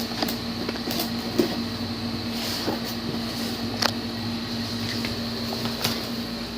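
A steady mechanical hum with a few short, sharp clicks scattered through it.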